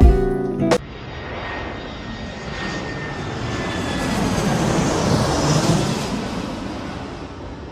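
Guitar music cuts off abruptly; then a loud rushing roar swells over several seconds to a peak and fades away, with faint tones slowly dropping in pitch.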